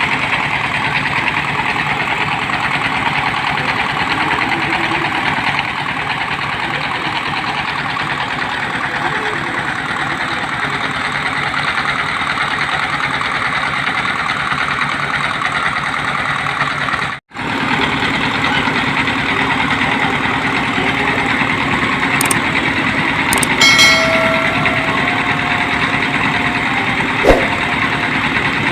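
Engine of a water-well drilling machine running steadily, with a brief dropout a little past the middle, a short pitched sound later on and a single sharp knock near the end.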